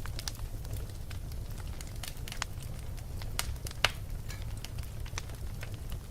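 Wood fire burning in a fireplace: irregular crackles and pops over a steady low rumble, with one sharper pop about four seconds in.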